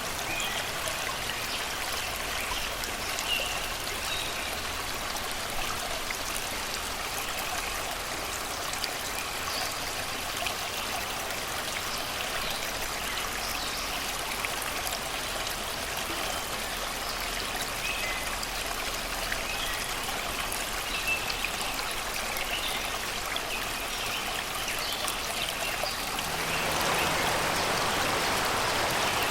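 Shallow river water rushing and babbling over rocks in a steady wash, with scattered short bird chirps from the surrounding forest. About 26 seconds in, the water grows louder and fuller.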